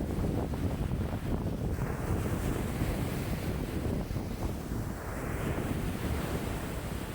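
Wind-driven lake waves washing and breaking against the shore, with strong wind buffeting the microphone as a low rumble. A wave swells and washes in about halfway through.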